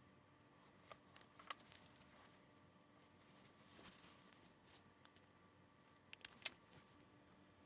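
Quiet handling of small camera parts and tools: scattered small clicks and taps, a cluster about a second in and the sharpest pair about six seconds in, with a soft rustle around the middle.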